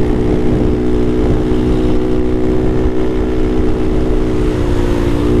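Honda Navi's small single-cylinder engine running at a steady cruising pace, its note holding one pitch, over a constant low noise.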